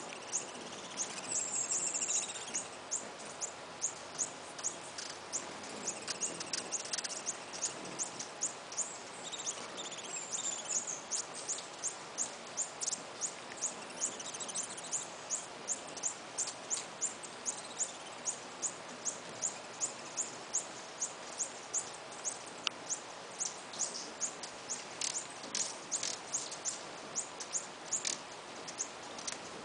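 Birds chirping: a long series of short, very high, thin chips, about two or three a second. Other bird calls are mixed in during the first half, over a steady background hiss.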